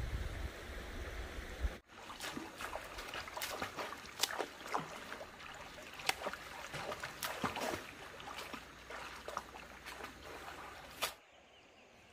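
Heavy rushing floodwater with a deep rumble, cut off abruptly after about two seconds. Then comes a quieter trickle of water with many irregular sharp clicks and small splashes.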